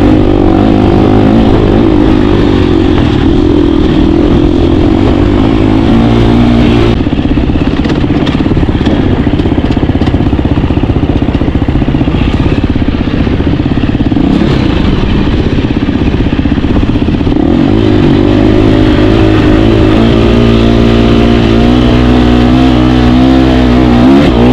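KTM 350 dirt bike's four-stroke single-cylinder engine running under way, loud throughout, its revs rising and falling again and again.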